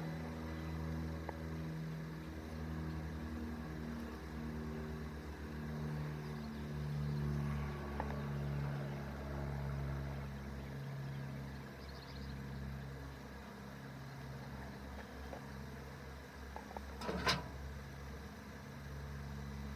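Honeybees buzzing at the hive entrance: a steady, low hum that swells and fades as foragers come and go. There is one sharp knock about 17 seconds in.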